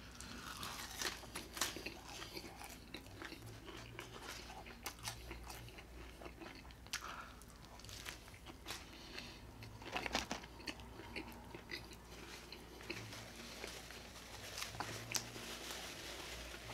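Close-up eating: a fast-food burger being bitten and chewed, with many short crisp crunches from the onions and lettuce and small wet mouth sounds, busier about ten seconds in.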